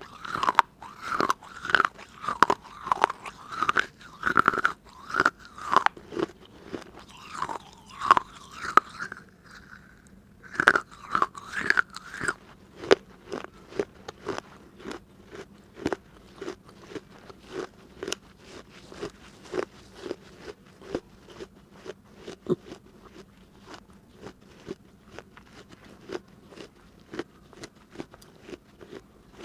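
Teeth biting and crunching through hard pieces of a baked clay diya (earthen lamp). For about the first twelve seconds the crunches come loud and dense, with a squeaky grinding edge. After that they settle into steady chewing, about two crunches a second.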